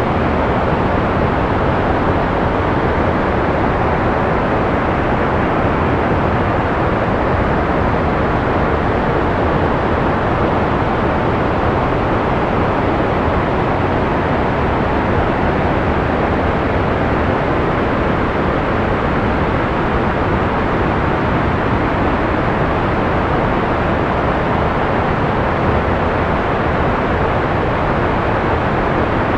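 Steady white noise from a sleep-sound track: an even, unchanging rush with a dull, muffled character, little treble and a fair amount of low rumble.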